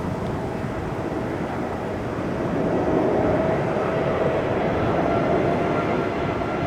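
Jet airliner engines running: a steady rumble with a faint high whine over it, getting louder about two and a half seconds in.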